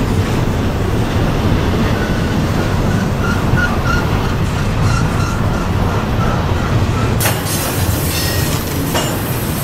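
Double-stack intermodal freight train's well cars rolling past close by: a steady loud rumble of steel wheels on rail, with short faint wheel squeals from about two seconds in. About seven seconds in the sound changes abruptly to a hissier rumble as another passing stretch of train takes over.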